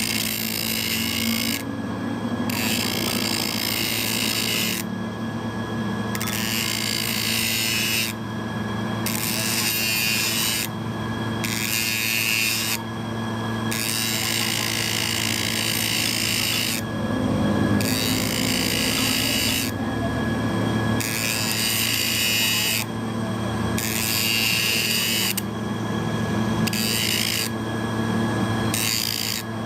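Workshop power tool or machine tool running steadily on metal, with a constant motor hum under a harsh cutting or grinding noise that breaks off briefly about every two to three seconds.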